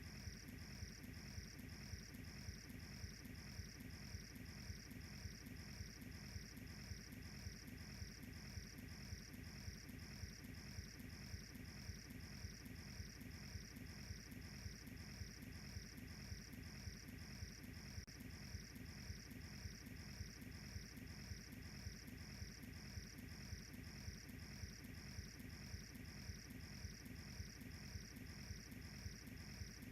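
A cricket chirping steadily in a high, even pulse of about two chirps a second, over a faint low steady rumble.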